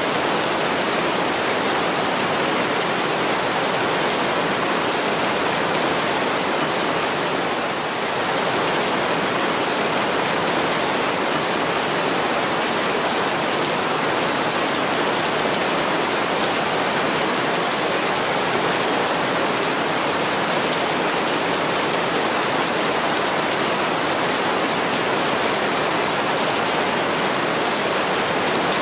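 Heavy rain pouring steadily on an attic window pane: a dense, even hiss.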